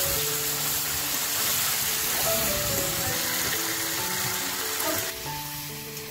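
Chicken and masala sizzling hard in a hot kadai as they are stirred, with water poured into the pan about four seconds in; the sizzle stops abruptly about five seconds in. Background music plays throughout.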